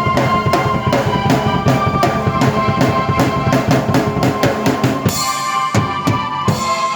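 Drum kit played at a busy, steady groove together with sustained keyboard chords. About five seconds in, the bass drops out and the drumming breaks into sparser accented hits with a cymbal crash.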